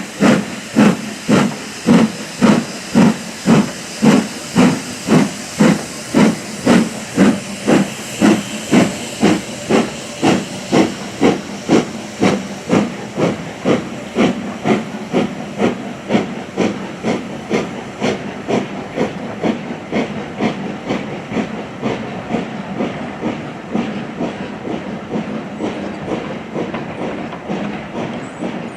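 Steam locomotive working hard and pulling away, its exhaust beats loud and regular, coming quicker and growing fainter as it moves off.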